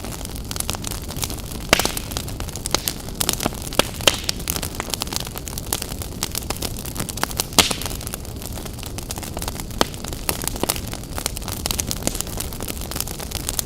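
Campfire crackling: a steady run of sharp snaps and pops over a low hiss, with two louder pops, one about two seconds in and one about seven and a half seconds in.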